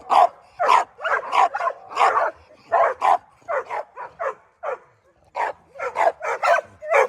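Dogs barking in a rapid run of short, sharp barks, about two to three a second, with a brief pause about five seconds in.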